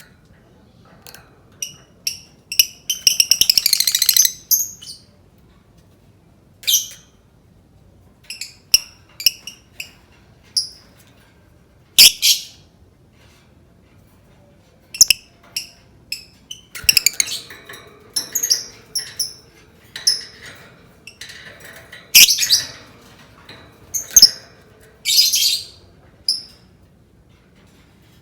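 Lovebird calling: short, sharp, high chirps at irregular intervals, with a fast chattering trill about three seconds in and another rapid trill near the end.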